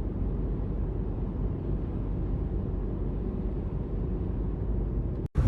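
Steady low rumbling noise with no clear rhythm or pitch, cut off abruptly near the end.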